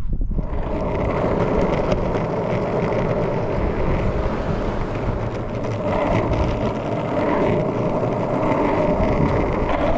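Steady vehicle noise: a dense rushing sound with no clear engine note, beginning suddenly.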